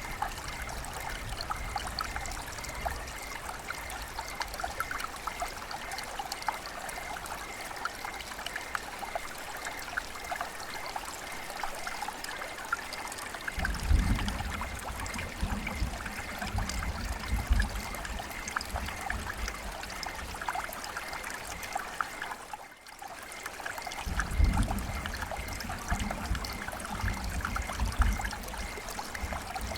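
River water flowing and trickling steadily. A low rumble surges in about halfway through and again near the end, with a brief dip in between.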